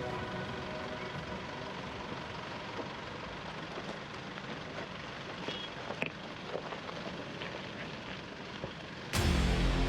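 Isuzu V-Cross pickup's 3-litre diesel running as it drives over rough ground, a steady rumbling noise with scattered clicks and knocks. About nine seconds in, loud music cuts in.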